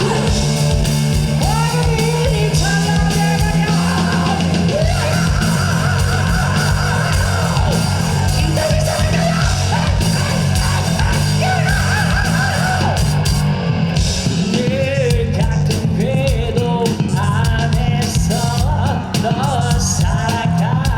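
Live rock band playing loud, with electric guitar, bass and drums and a singing voice.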